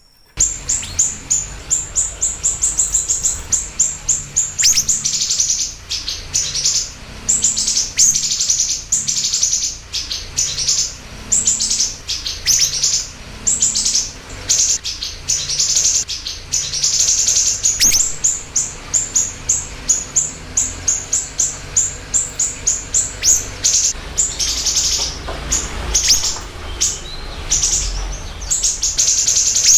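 Siri-siri bird singing: long runs of sharp, high chirps, several a second, one after another with only brief pauses, over a faint steady low hum.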